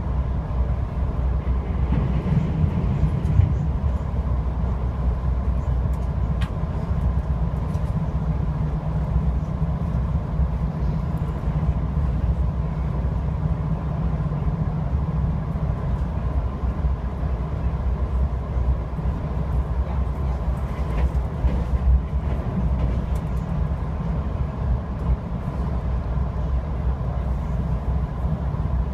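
VIA Rail LRC passenger train running at speed, heard aboard: a steady low rumble of wheels on rail with a thin steady whine above it and an occasional faint knock.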